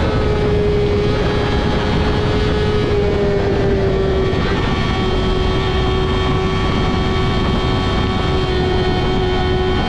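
Yamaha R6 inline-four with a Two Brothers full-system exhaust running at high, steady revs under way, its pitch easing slightly over the first few seconds and then holding, with wind and road rush.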